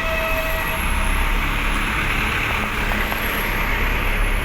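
Truck engines running together with a steady low rumble and a hiss of noise.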